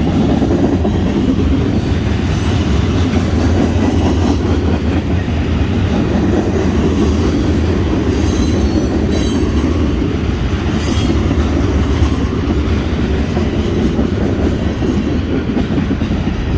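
BNSF freight train cars rolling past close by: a steady, loud rumble of wheels on rail, with a few faint high wheel squeals around the middle.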